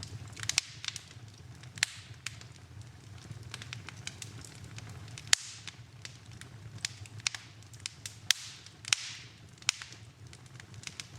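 Wood fire burning in a fireplace, crackling with sharp, irregular pops over a steady low rumble; the loudest pop comes about five seconds in.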